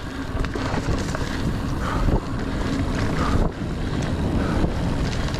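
Wind rushing over the camera microphone, together with the rumble and rattle of a Niner Air 9 RDO 29er mountain bike rolling over rough dirt singletrack. Small knocks and clicks come through now and then.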